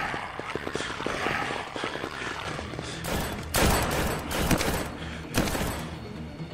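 A volley of gunfire: a dense rattle of rapid shots, then a few louder shots spaced about a second apart.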